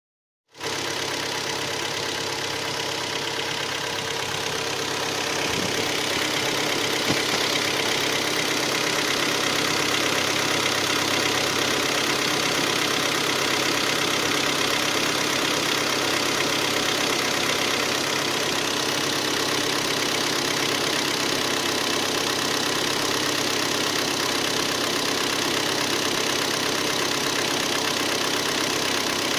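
Hyundai ix35's G4KD 2.0-litre four-cylinder petrol engine idling cold with a steady knock, a little louder after about five seconds. The owner puts the knock down to scoring in cylinders 2, 3 and 4.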